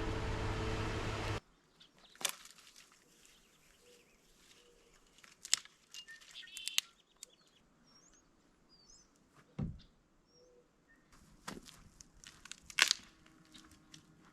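Scattered rustles and clicks with a few faint, high bird chirps. A loud steady rushing noise at the start cuts off abruptly about a second and a half in.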